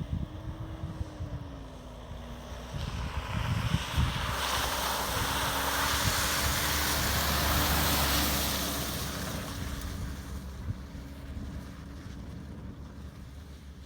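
Ford Ranger 4x4 driving off-road, its engine running with a steady, slightly wavering drone, while a rushing hiss swells from about three seconds in, peaks, and fades again after about nine seconds.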